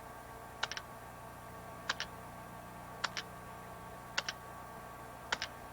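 Sharp double clicks repeating evenly, a pair about every second, over a faint steady hum.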